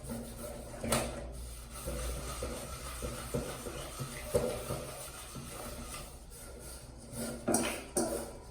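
Kitchenware being handled and scrubbed: irregular knocks and clatters, with rubbing and scraping between them.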